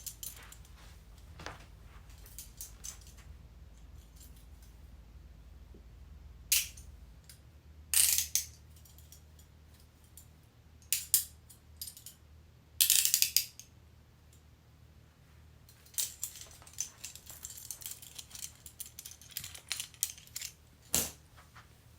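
Metal handcuffs being worked: the ratchet clicks and rattles in separate short bursts, then a quicker run of clicks near the end.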